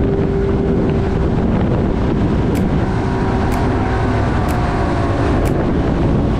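Wind rumbling on the microphone, with a steady motor hum underneath. A faint click comes about once a second in the second half.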